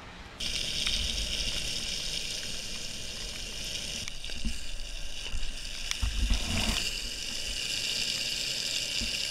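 77 mm Seismic Speed Vent longboard wheels rolling over wet pavement, with a steady hiss of water spray thrown up from the tyres. The hiss starts suddenly about half a second in. A brief low rumble comes around six seconds in.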